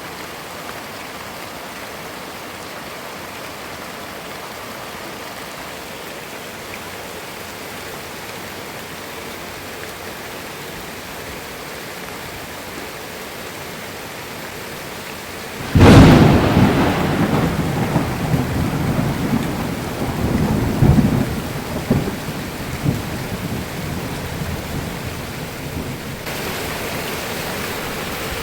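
Steady rain falling. About halfway through, a sudden loud thunderclap breaks in and rolls on in rumbles for several seconds before settling back under the rain.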